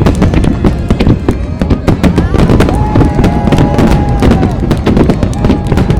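Dense fireworks barrage: shells bursting in rapid, overlapping bangs and crackles many times a second over a constant low rumble.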